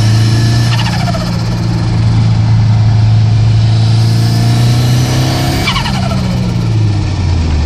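Ford Sierra Cosworth 4x4's turbocharged four-cylinder engine running steadily, with a falling turbo whistle twice, about a second in and again near six seconds in, as the turbo spools down.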